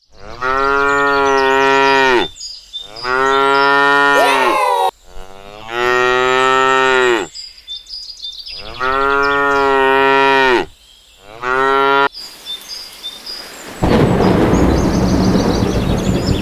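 A cow mooing in five long, drawn-out calls, the last one short. About fourteen seconds in, a loud rumble of thunder with rain begins.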